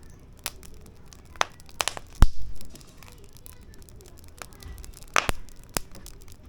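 Firewood burning in a fire pit, crackling with sharp, irregular pops. The loudest pop comes about two seconds in, and a cluster of pops comes a little after five seconds.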